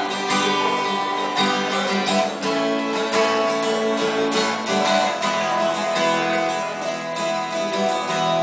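Acoustic guitar strummed in an instrumental passage of a song, with no singing.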